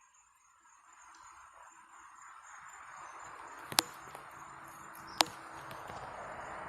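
Night insects trilling steadily in two high tones, while a rushing hiss slowly swells underneath. Two sharp clicks come about a second and a half apart, near the middle.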